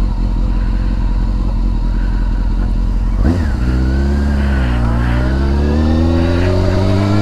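Motorcycle engine running at road speed with rushing wind. A little over three seconds in there is a short sharp change, and then the engine note dips and climbs steadily as the bike accelerates.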